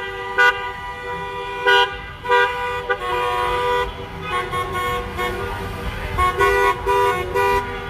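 Car horns honking from passing vehicles: several short toots, then longer overlapping blasts at different pitches from the middle on, over the low rumble of traffic.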